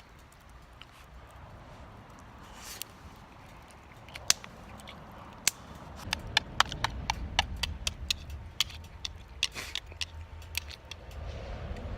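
Metal utensil clicking and scraping against a metal mess kit while eating: irregular sharp taps starting about four seconds in and coming thicker from about six seconds, over a low rumble.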